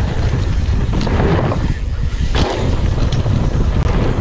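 Wind buffeting the microphone as a mountain bike rides down a downhill trail, with a few sharp knocks and rattles from the bike over rough ground.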